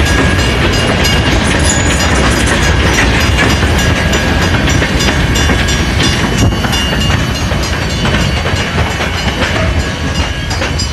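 Freight train of tank cars rolling past, a steady heavy rumble with the wheels clicking over the rail joints and a thin high tone running through it.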